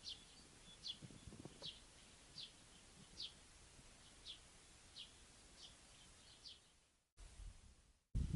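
A bird chirping over faint outdoor background noise: a short, high call repeated about once every second. The sound drops out twice near the end, and a low rumble like wind on the microphone begins just before it stops.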